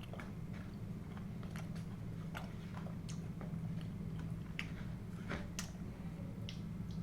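Close-miked chewing and biting of food, with scattered short wet clicks and crunches from the mouth over a steady low hum.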